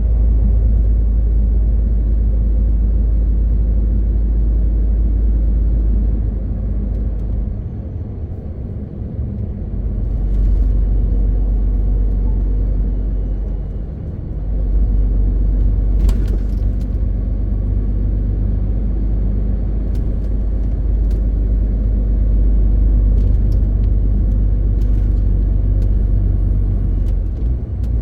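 MAN TGX 18.520 truck's diesel engine running under way with a steady low drone and road rumble. It eases off briefly about 8 and 14 seconds in, and a few sharp clicks or knocks come through in the second half.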